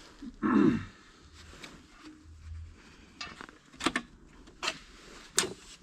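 Light metal clinks and knocks of steel parts and hand tools being handled during work on a corn head, several sharp ones in the second half, after a brief louder scrape about half a second in.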